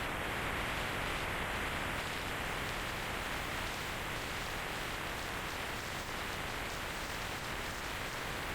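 Steady rush of wind and road noise on the microphone of a moving motorcycle, with no engine note standing out.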